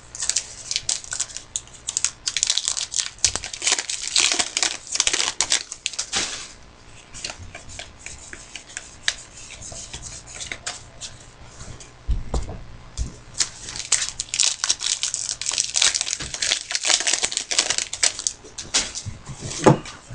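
Trading card packs being torn open and their wrappers crinkled and crumpled, in two long stretches of dense crackling with a quieter spell in the middle.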